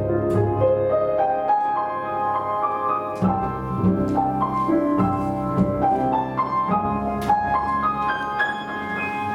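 Chamber ensemble of flute, harp, violin, cello, double bass and piano playing a classical piece, the piano to the fore with quick runs of notes over held low notes.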